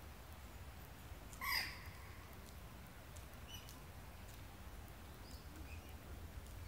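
A single short bird call about one and a half seconds in, falling slightly in pitch, with a few faint chirps later, over a steady low rumble.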